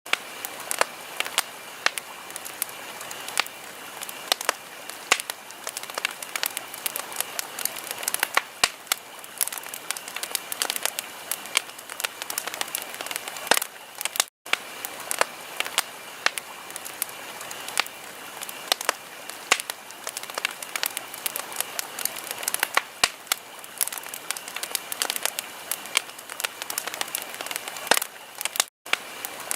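Wood fire crackling in a fireplace: a steady hiss with frequent, irregular sharp pops and snaps. The sound cuts out for an instant twice, about halfway through and near the end.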